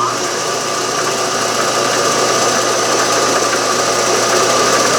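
Milling machine running steadily at full speed, with a constant whine over a low hum.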